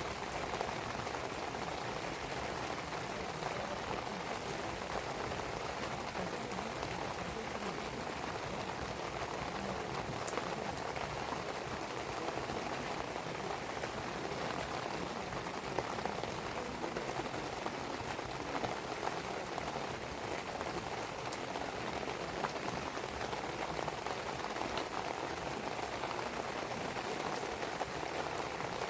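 Steady rain falling, with a wood fire burning and giving occasional sharp crackles every few seconds.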